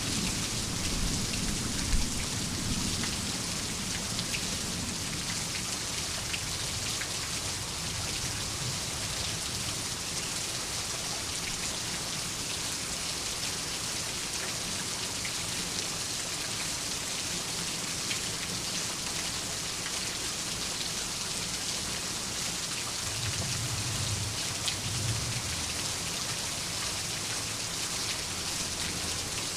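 Steady rain hissing on surfaces. Low thunder rumbles away in the first few seconds, and a fainter distant rumble comes near the end.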